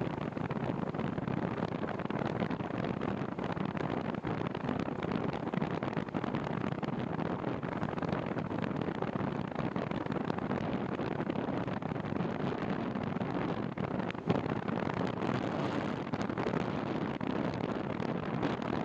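Wind buffeting the microphone of a camera on a moving bicycle: a steady rushing noise with no pauses. A single short knock about fourteen seconds in.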